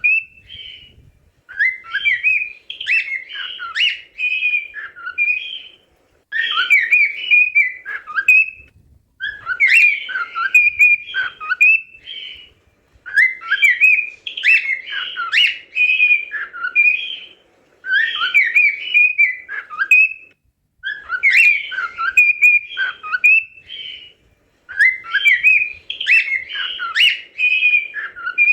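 Cockatiel singing: a warbling whistled phrase of quick rising and falling notes, about three seconds long, repeated over and over with short pauses between.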